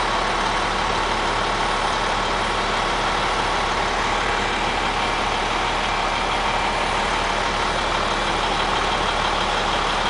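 Vehicle engine idling steadily, with an even, unchanging noise throughout.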